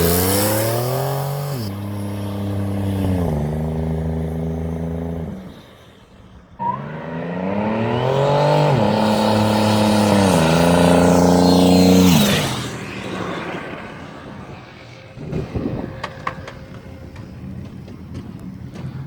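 Turbocharged V6 minivan engine at full throttle, climbing in pitch and dropping in steps as the automatic transmission upshifts, twice over. After the second run the engine note falls away sharply, leaving a few irregular knocks.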